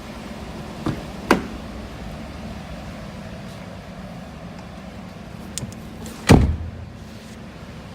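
Work truck door being worked: sharp clicks about a second in, then the door shut with a heavy thump about six seconds in, over a steady low hum.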